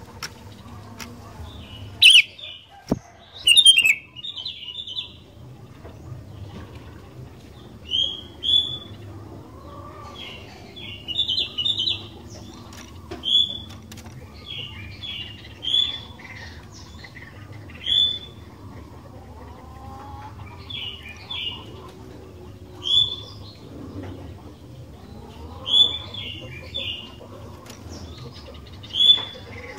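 Sooty-headed bulbul (kutilang) calling: short, bright phrases repeated every two or three seconds, the loudest two a few seconds in.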